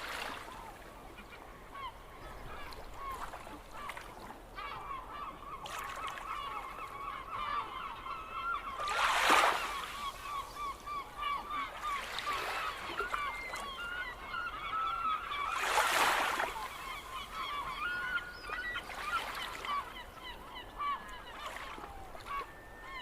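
A flock of seagulls calling, many short cries overlapping in a continuous chorus. Twice, about nine seconds in and again about seven seconds later, a loud rush of noise swells up over the calls.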